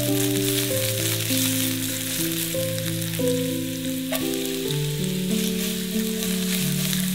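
Food sizzling and crackling as it fries in hot oil in a pan, with a single click about four seconds in. Soft background music with held notes plays underneath.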